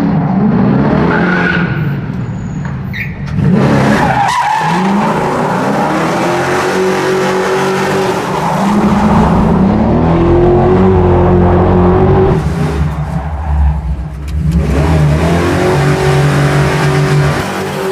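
American V8 muscle car engine revving hard again and again and held at high revs, its pitch climbing several times, while the rear tires spin and squeal in a burnout or donuts.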